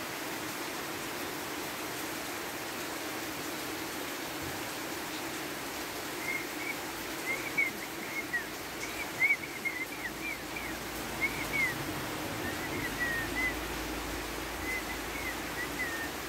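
Steady rain falling, with a bird chirping in quick runs of short high notes from about six seconds in until near the end.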